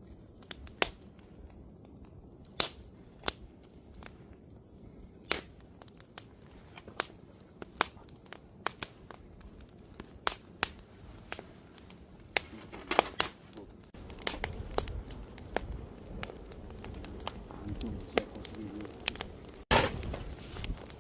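Wood fire crackling, with sharp, irregular pops and snaps. A low rumble joins about two-thirds of the way through.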